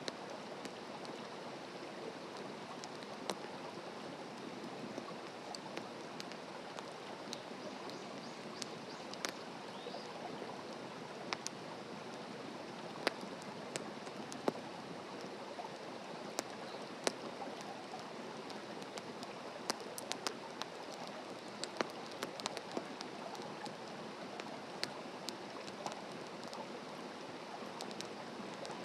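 Wood campfire burning: a steady hiss with irregular sharp crackles and pops from the burning wood.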